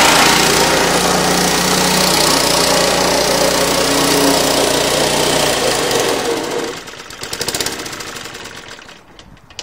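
Suffolk Punch 35S lawnmower's small two-stroke petrol engine running steadily, then shutting off about six seconds in and running down with a few uneven last beats until it stops.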